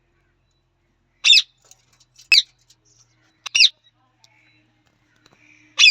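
A parrot giving short, harsh squawks: four single calls about a second apart.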